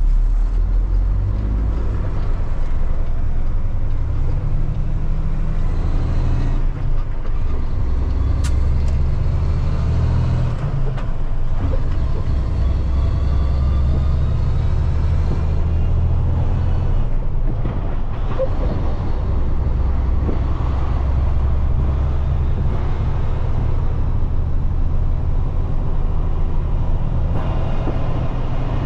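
Diesel engine of a loaded semi truck running under load, heard from inside the cab as the truck pulls away through the low gears; the engine note breaks and changes several times as gears are shifted.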